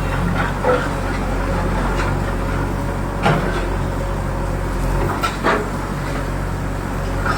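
Excavator engine running steadily at a low hum, with a few short, sharp metallic clanks.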